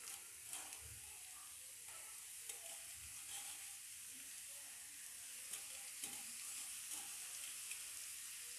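Faint, steady sizzling of grated white radish (mooli) with chopped onion, green chilli, garlic and ginger frying in oil in a non-stick frying pan, with occasional small crackles.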